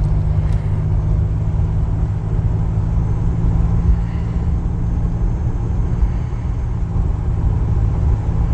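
Steady low drone inside the cabin of a 1986 Buick Regal T-Type cruising on the road, engine and road noise together.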